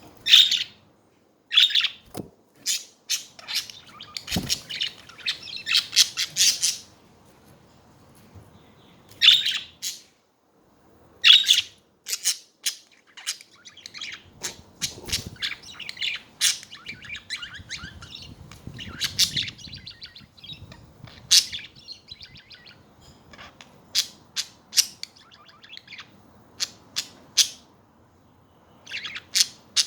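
Budgerigars chirping and chattering: a stream of short, sharp calls in irregular bursts, with a few louder squawks near the start and around ten seconds in.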